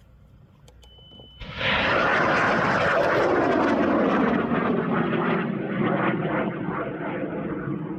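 Aerotech M1939 high-power rocket motor igniting about a second and a half in with a sudden loud roar that holds for a few seconds, then slowly fades and drops in pitch as the rocket climbs away.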